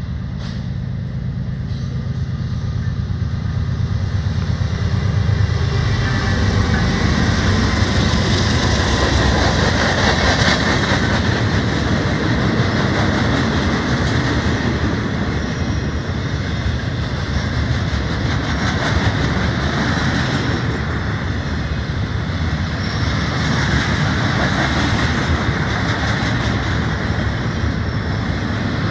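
A BNSF freight train led by GE ES44DC and Dash 9-44CW diesel locomotives passes close by. It opens with the low drone of the approaching diesel engines, growing louder over the first few seconds. Then a long string of flatcars loaded with rail rolls past, its wheels rumbling steadily on the track.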